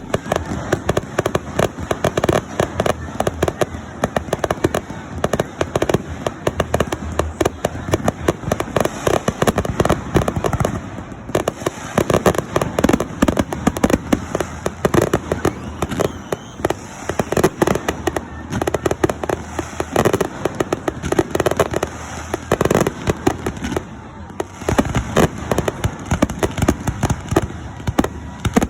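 Aerial fireworks display going off in a continuous, rapid barrage of bangs and crackles, many reports a second.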